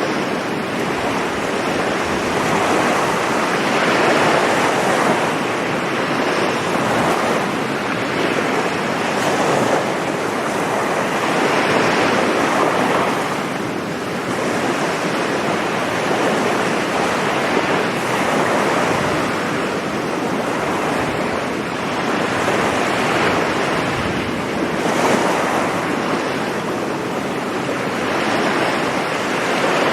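Sea surf breaking and washing onto a beach: a continuous rushing that swells and eases every few seconds as waves come in.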